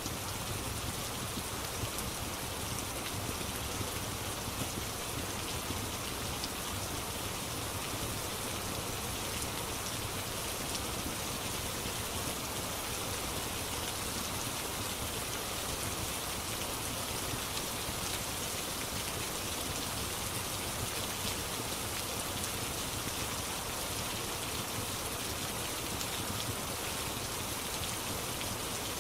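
Steady rain falling on a surface: a dense, even patter of drops with fine ticks through it.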